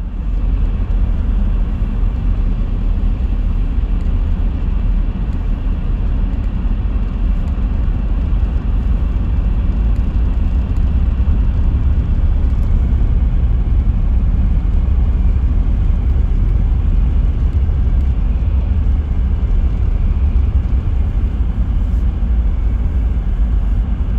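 Motor vehicle on the move, a steady loud low rumble of engine and road noise with no pauses or changes.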